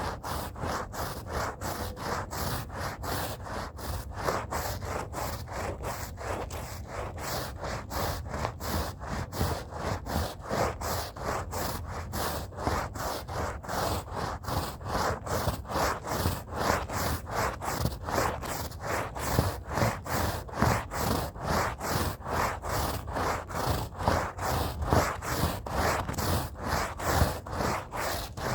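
Stiff brush scrubbing a rug by hand in quick back-and-forth strokes, about three a second, bristles rasping on the wet carpet fibres.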